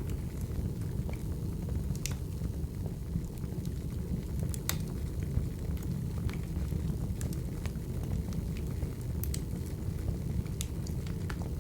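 Wood fire burning: a steady low rumble with scattered sharp crackles and pops at irregular moments.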